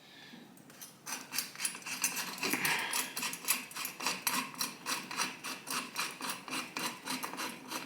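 Quick, irregular metal clicks and taps, several a second, starting about a second in: a motorcycle headlight bucket and its mounting hardware being handled and pushed at while it is fitted.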